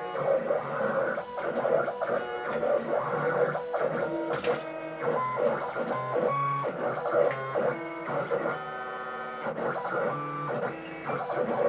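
Vinyl cutting machine running, its motors whining in steady tones that jump from pitch to pitch as it moves, with small ticks between the moves.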